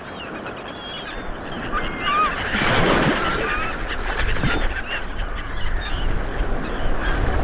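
Several birds calling in short, bending chirps and squawks over a rushing noise that swells about two and a half seconds in.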